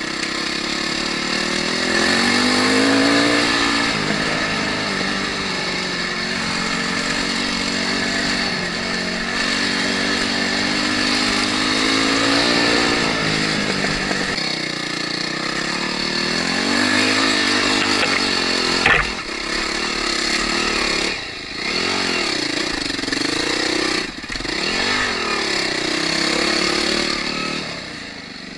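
Enduro dirt bike engine revving up and down under changing throttle while riding a trail. Its pitch rises and falls continually, the throttle is closed briefly a couple of times, and there is one sharp knock about two-thirds of the way through.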